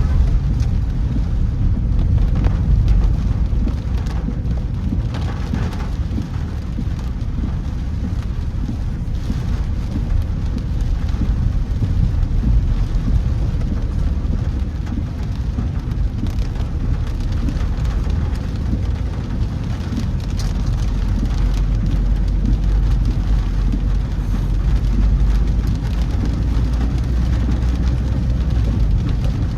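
Heavy rain falling on a moving car, over a steady low rumble of the car on the wet road.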